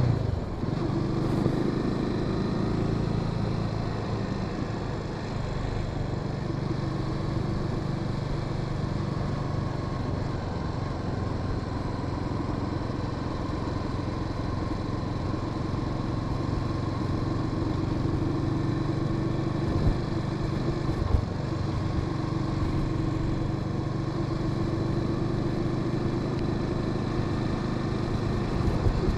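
Honda Sahara 300's single-cylinder engine running steadily as the motorcycle rides along. Two brief knocks come a little past two-thirds of the way through.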